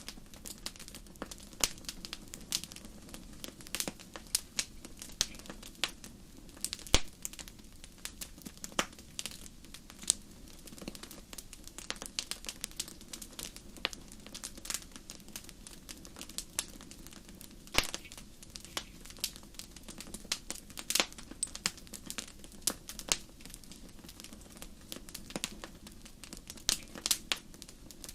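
Wood fire crackling in a fireplace: irregular sharp pops and snaps several times a second, with a few louder pops, over a low steady rumble of the flames.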